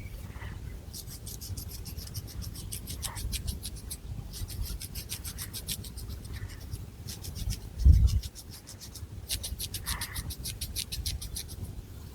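Long fingernails scratching rapidly through long hair on a scalp, in quick raspy strokes of about nine a second, in spells of one to two seconds with short pauses between. A dull low thump about eight seconds in is the loudest sound.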